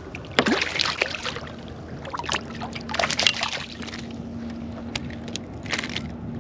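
Water splashing and sloshing at a kayak in a few short bursts, with a faint steady hum coming in about a second in.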